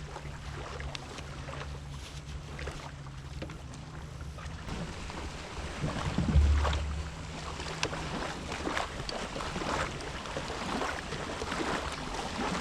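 Yamaha WaveRunner FX Cruiser HO jet ski's engine idling with a steady low hum, with water splashing and lapping around the hull. A single low thump comes about six seconds in.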